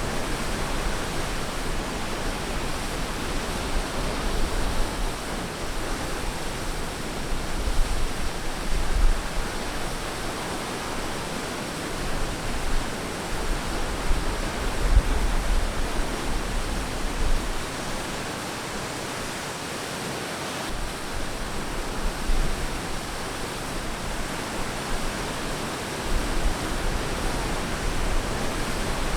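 Ocean surf washing onto a beach: a continuous rushing hiss that swells gently in loudness, with low rumbles coming and going underneath.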